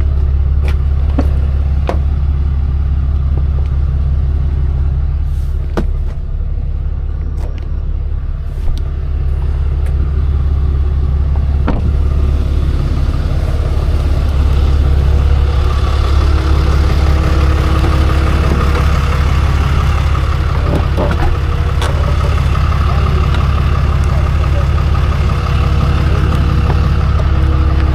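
Motor vehicle running: a steady low rumble of engine and road noise, with more hiss coming in about halfway through and a few faint clicks.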